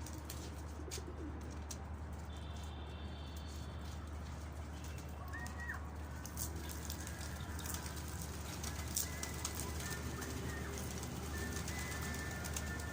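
Domestic pigeons cooing, over a steady low hum with scattered light clicks.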